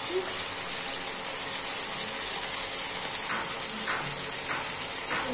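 Chicken, ginger and garlic sizzling in hot oil in a kadai: a steady hiss, with a few faint pops in the second half.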